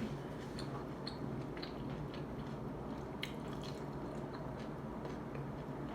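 A person chewing ceviche close to the microphone: scattered wet mouth clicks and smacks, about two a second.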